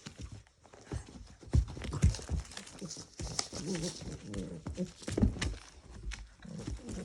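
A Chihuahua and a pit bull terrier puppy playing: scuffling with repeated thumps of paws and bodies on the floor, the loudest about a second and a half, two seconds and five seconds in.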